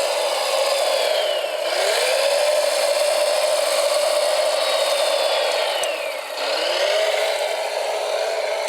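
Whine of a radio-controlled model machine's electric motor and gearbox. It runs steadily but drops in pitch twice, about two and six seconds in, as if bogging under load, and climbs back each time.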